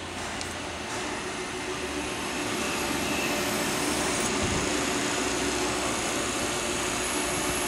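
Steady mechanical hum and hiss of an idling Amada Pega 244 CNC turret punch, with a low drone and no punching strokes, growing a little louder over the first few seconds.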